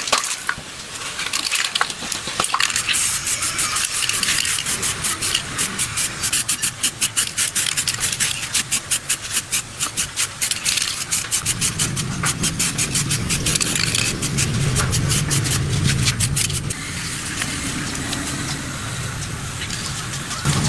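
Rapid back-and-forth scraping, a hand tool rubbing on a hard surface in even strokes, at about four strokes a second in the middle.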